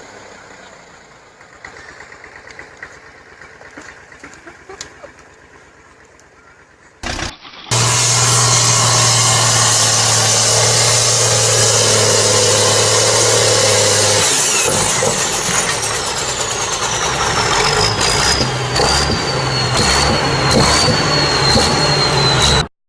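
A vehicle engine running loudly with a steady low hum, mixed with a dense rushing noise, starting suddenly about eight seconds in after a quieter stretch of scattered clicks. A high whine falls slowly in pitch over the last several seconds.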